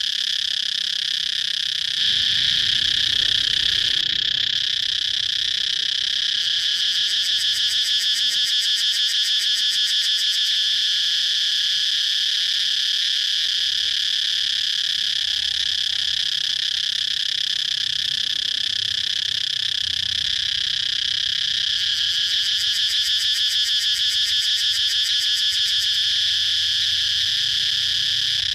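Cicadas singing: a continuous, high-pitched buzzing drone that turns into a faster, more marked pulsing twice, about a quarter and about three quarters of the way through.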